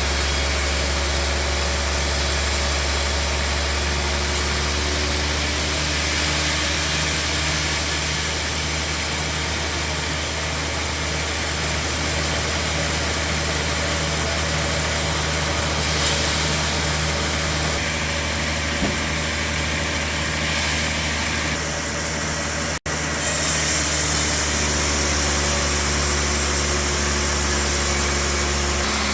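Band sawmill machinery running with a steady, even hum. The sound drops out for an instant about three-quarters of the way through.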